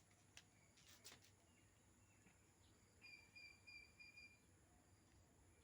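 Near silence with a faint bird chirping: a quick run of five or six short, high, evenly spaced notes about three seconds in.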